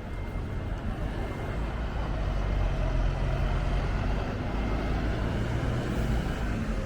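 Motor vehicle engine running, a low steady rumble that grows louder about two seconds in.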